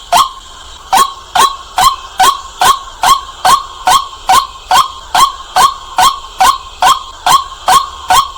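White-breasted waterhen giving its loud, repeated 'kwak' call, about three calls a second in a steady run after a short pause near the start.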